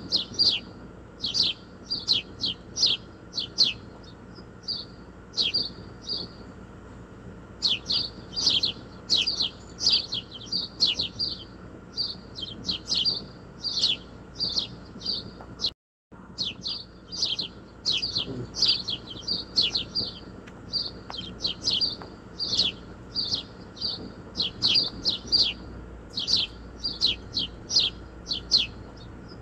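A small bird chirping over and over: short high chirps in quick runs of several a second, with short pauses between runs. The sound cuts out completely for a moment about halfway through.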